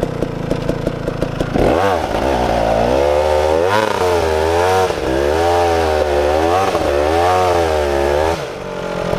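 KTM 300 two-stroke dirt bike engine running with a rapid ticking, then opened up about one and a half seconds in, its pitch climbing and falling several times under the throttle before it drops away near the end.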